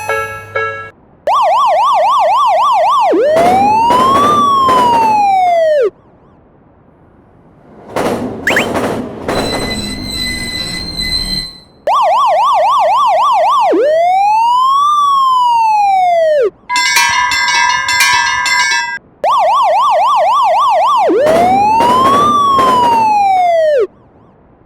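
Electronic police siren sounding three times, each time a fast yelp followed by one slow wail that rises and falls. Between the first two, about eight seconds in, there is a noisy clatter of several seconds; between the last two comes a short burst of bright electronic tones.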